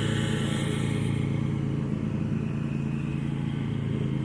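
Zero-turn lawn mower's engine running steadily.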